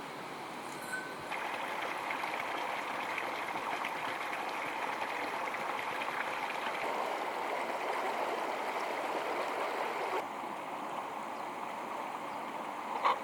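Water running steadily, like a small stream, with a short sharp knock near the end.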